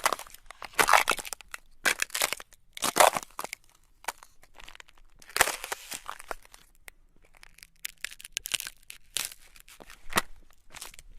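Ice cracking and crunching: irregular bursts of sharp cracks and crackling a second or more apart, with fainter crackles between them.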